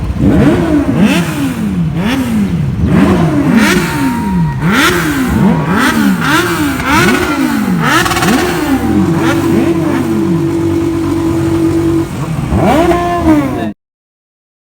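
Sport motorcycle engine being revved over and over in quick blips, each rev rising and dropping back within about a second, then held at steady high revs for a few seconds. A last blip near the end, then the sound cuts off abruptly.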